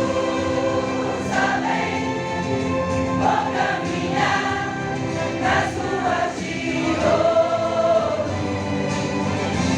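A church choir singing a hymn together, several voices holding long sustained notes in harmony.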